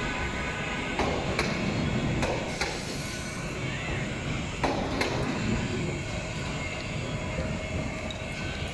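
Bangladesh Railway passenger train's coaches rolling past with a steady rumble. The wheels clack over rail joints in pairs of sharp clacks, three times.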